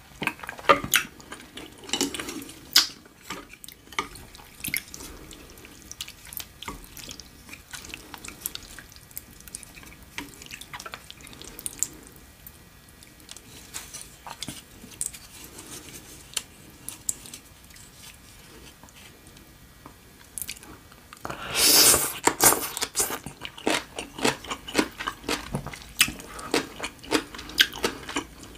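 Close-miked eating: wet chewing with frequent mouth clicks and smacks while saucy rice noodles are picked up with chopsticks. About 21 seconds in comes a louder, denser wet burst lasting about two seconds.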